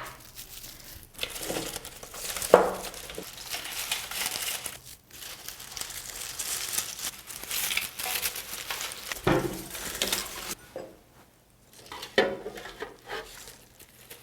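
Dry reed stalks rustling and crackling as they are handled and pushed into an iron vase, with a few sharp knocks at about two and a half, nine and twelve seconds in.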